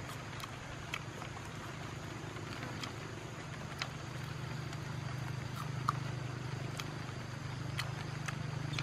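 Someone biting and chewing grilled crickets off a bamboo skewer: scattered sharp crunches and mouth clicks, irregular and roughly a second or so apart. A steady low hum runs underneath.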